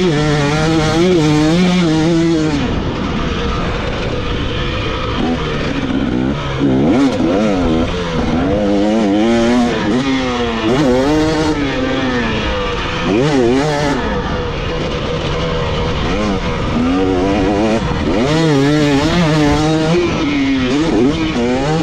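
Dirt bike engine revving hard and backing off again and again, its pitch climbing and dropping every second or so as the throttle is worked on a motocross track.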